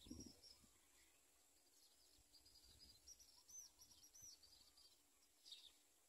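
Faint bird twittering: a run of quick, high chirps through the middle, then a single short call near the end. A brief low rumble at the start.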